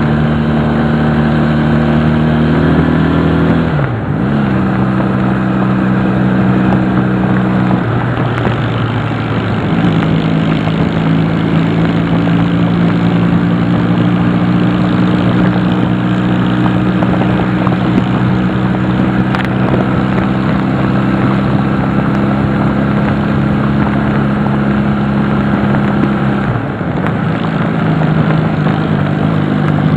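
Honda CD175 motorcycle's parallel-twin engine running under way, with a steady note. The note dips and picks up again three times: about four seconds in, between eight and ten seconds, and near the end.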